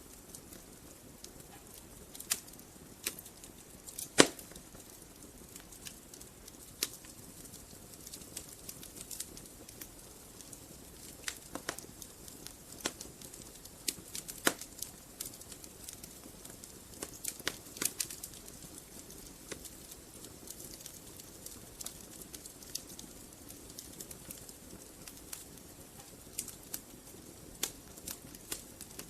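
Wood fire burning in a fireplace: soft steady hiss with irregular crackles and sharp pops from the logs, the loudest pop about four seconds in.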